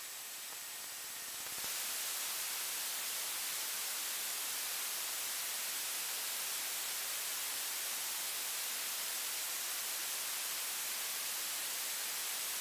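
Steady static hiss on the aircraft's radio and intercom audio feed, with no voices. A click comes at the start, and the hiss steps up about a second and a half in, then holds steady.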